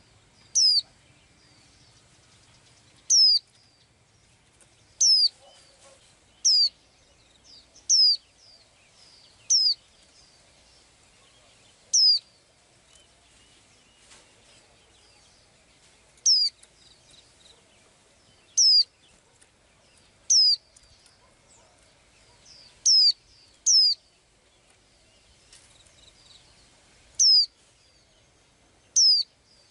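A small songbird repeating one sharp, high call, a quick downward-sweeping whistle, about every one to three seconds.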